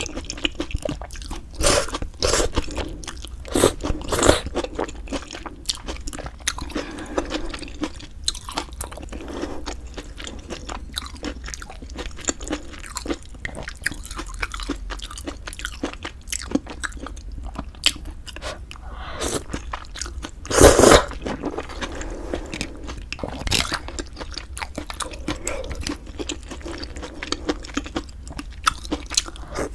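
Close-miked eating: steady chewing with sharp crisp crunches and bites, the loudest about 20 seconds in.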